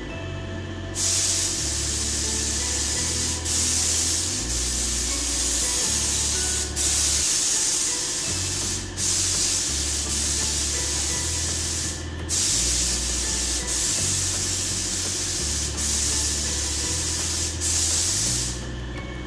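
Compressed-air gravity-feed paint spray gun hissing in long spray passes over a car's rear quarter panel, cut off briefly by the trigger between passes several times.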